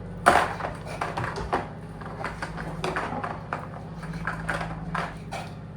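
Irregular light clicks and knocks, the loudest a sharp knock about a quarter second in, over a steady low hum.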